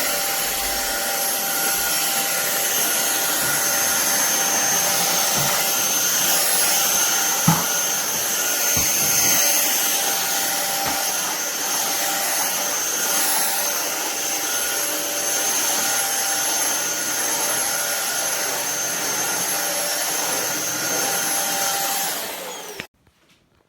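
SunSare cordless stick vacuum cleaner running steadily, a rushing of air with a high motor whine, with a few short knocks about a third of the way in. It switches off shortly before the end and the sound cuts off.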